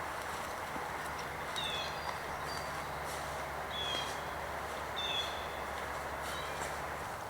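A bird calling: short, high chirps that fall in pitch, repeated every second or so over a steady background rush.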